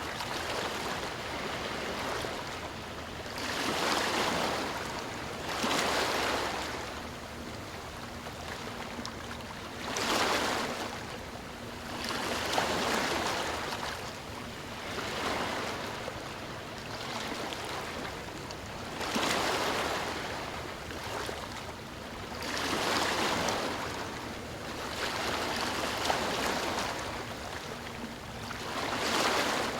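Sea waves breaking and washing up on the shore. The surf swells into a louder rush every few seconds over a steady wash of water.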